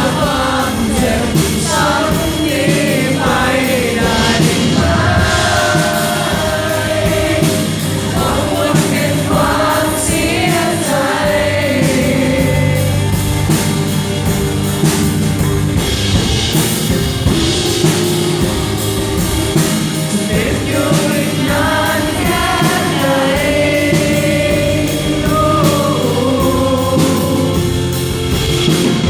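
Live rock band playing, with singing over guitars, bass and drums.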